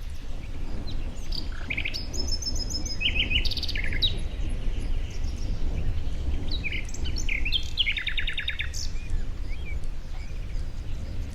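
Several songbirds chirping and singing short, rapid trills, one after another, over a steady low rumble.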